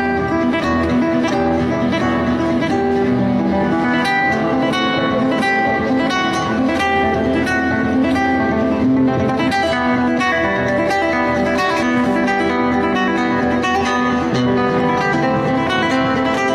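Acoustic guitar played solo, a steady run of quickly plucked notes mixed with strums.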